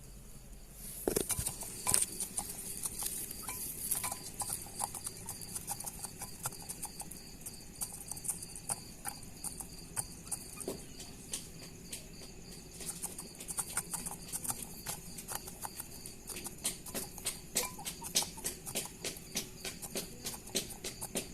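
Pet birds moving about: many quick, irregular clicks and taps, growing busier in the second half.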